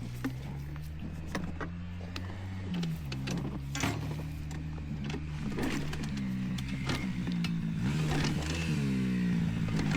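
Dirt bike engine running, its pitch going up and down with the throttle and slowly getting louder, with scattered sharp clicks and knocks over it.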